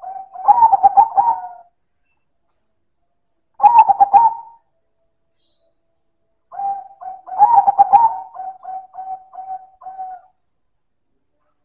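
Zebra dove (perkutut) singing in three phrases of rapid staccato coos, each opening with a loud burst. The last phrase trails off in a string of short, even coos at about four a second.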